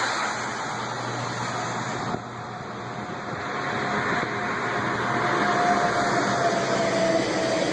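Steady road and engine noise of a moving car, heard from inside, with a faint steady whine that comes in about two seconds in.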